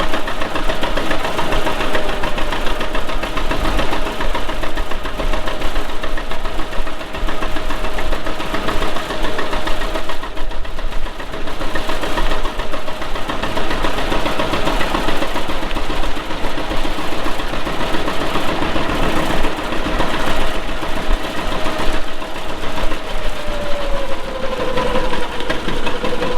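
Antique farm tractor engine running steadily under way, its pitch easing down slightly near the end.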